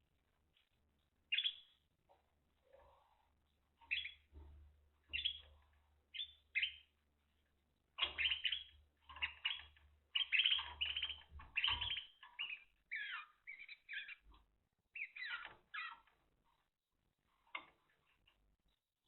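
Spanish Timbrado canary singing in short broken phrases, busiest from a little before halfway through and falling quiet a little before the end, with a faint low hum underneath for the first two-thirds.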